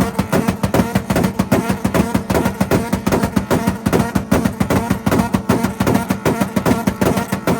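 Honda engines held on a two-step launch-control rev limiter, the exhaust cracking off a rapid, steady string of bangs, several a second, like machine-gun fire.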